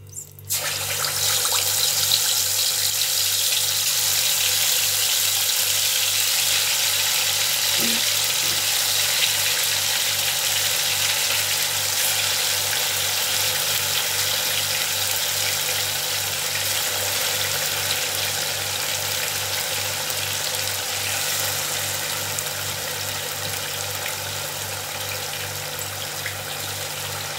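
Marinated chicken kebab pieces deep-frying in hot oil in a kadhai: a loud, steady sizzle that starts as the first pieces go in about half a second in and eases slowly as more pieces are added. A low pulsing hum runs underneath.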